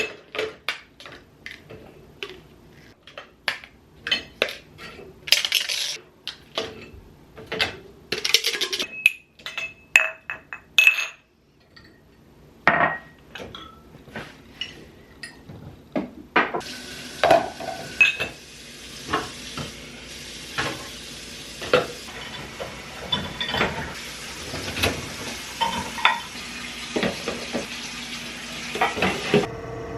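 Kitchen cooking sounds: utensils and dishes clinking and knocking against pots and pans. About halfway through a steady sizzle of frying starts, with stirring clinks over it, and it stops suddenly near the end.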